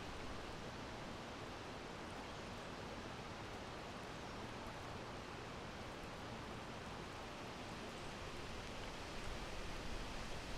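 A steady, soft breeze: an even hiss of wind with a low rumble beneath it, swelling slightly near the end.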